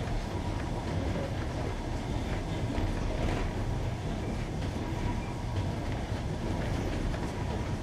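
Passenger train heard from on board, running over jointed rails: a steady rumble of the carriage, with faint clicks as the wheels cross the rail joints.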